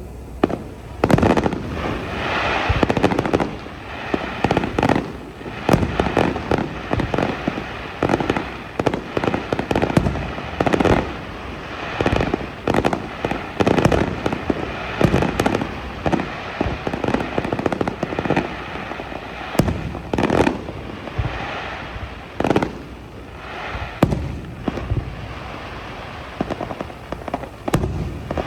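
Aerial fireworks show: a rapid string of bangs and booming bursts, many followed by crackling, easing off briefly near the end before more bursts.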